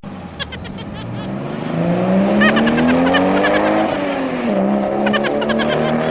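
Engine-like revving sound that climbs steadily in pitch for about four seconds, drops back briefly, then climbs again, with light clicks and rattles over it.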